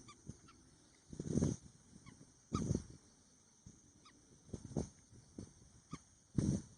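Wetland birds calling: a handful of short, irregular low calls, some goose-like honks, with faint brief high chirps in between.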